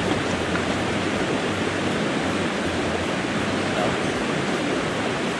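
River water rushing steadily over rocks, a constant even roar.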